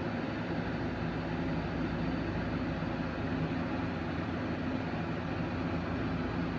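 A steady low mechanical hum with a few pitched tones in it, holding the same level throughout.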